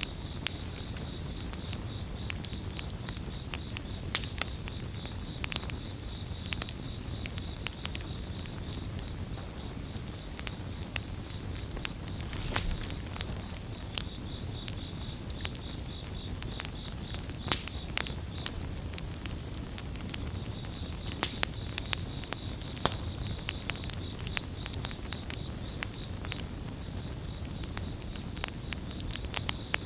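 Campfire crackling, with sharp pops scattered irregularly over a low, steady rush of burning. Crickets chirp in a steady high trill behind it, which drops out for a couple of seconds a little past the middle.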